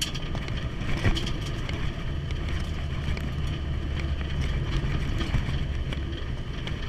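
Vehicle cabin noise while driving: a steady low engine and road rumble, with a single short knock about a second in.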